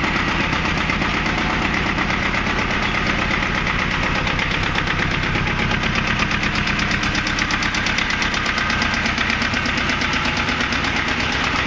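Mitsubishi MT372D compact tractor's two-cylinder diesel idling steadily with rapid, even firing pulses, running cold just after a cold start.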